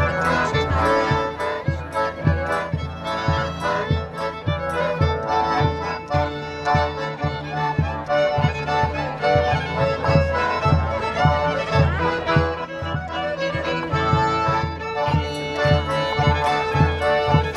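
Traditional folk music played live by an accordion and fiddle over a steady bass beat, about two beats a second.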